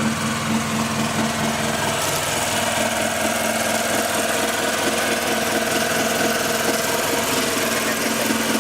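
A fishing boat's engine running at a steady pace, a constant hum with a mechanical vibration to it.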